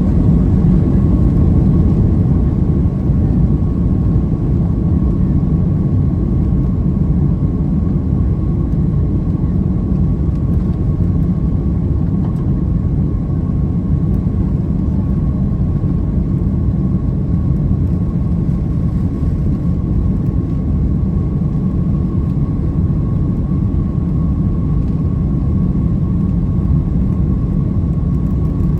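Boeing 767-300 jet engines at take-off power, heard inside the passenger cabin: a loud, steady rumble of engine and airflow noise with a faint steady whine above it.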